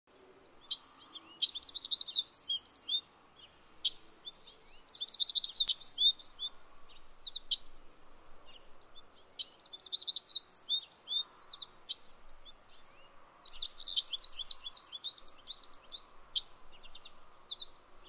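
Songbirds singing: four bursts of rapid, high twittering phrases, each about two seconds long, with quieter gaps between them.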